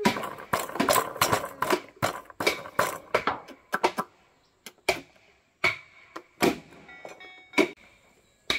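A quick run of sharp knocks and strikes, then slower single knocks about a second apart.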